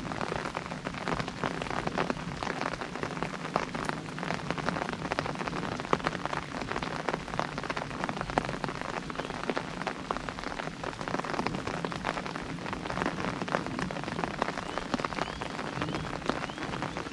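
Rain pattering on an umbrella: a dense, irregular tapping of drops on the canopy at a steady level.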